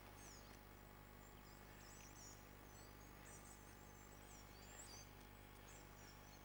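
Near silence, with faint high chirping of small birds throughout over a steady low hum.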